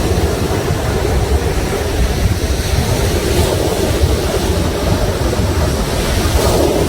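Sea waves breaking and washing, with a swell near the end, and wind buffeting the microphone in a heavy low rumble.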